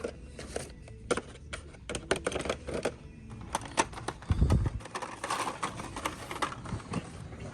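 Blister-packed Hot Wheels die-cast cars clacking and clicking together at irregular intervals as they are flipped through on a store shelf, with a dull thump about four and a half seconds in.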